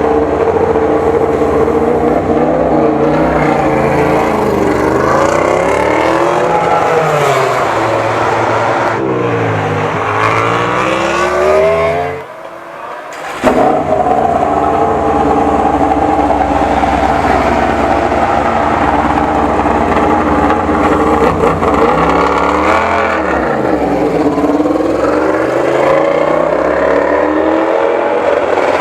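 Yamaha YZR-M1 MotoGP bike's inline-four engine revving. The pitch falls and rises several times, drops out briefly about twelve seconds in, then holds a steady high pitch for several seconds before sweeping down and up again.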